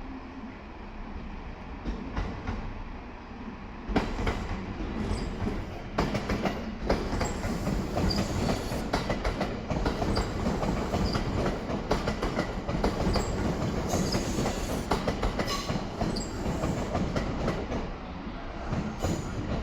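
JR 227 series 'Urara' electric train pulling out, its wheels clicking over the rail joints in a clickety-clack that gets louder and busier about four seconds in, with brief high wheel squeals.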